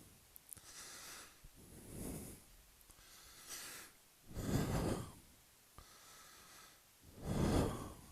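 A person breathing hard close to the microphone, about six breaths a second or two apart, the loudest two in the second half.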